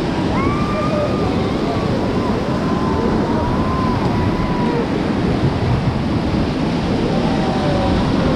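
Whitewater river rapids rushing steadily, with wind blowing on the microphone.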